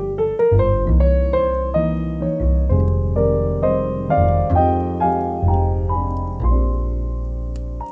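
Calm, slow piano music, a new note or chord about every half second over sustained low bass notes. Faint fireplace crackles sit over it.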